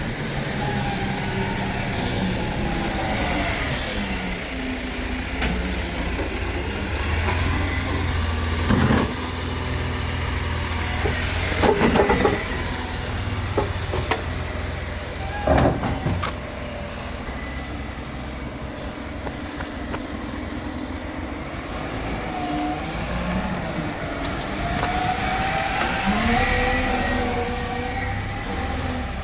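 Automated side-loader rubbish truck running, its engine note rising and falling, with a few loud knocks and clanks about a third and half of the way through.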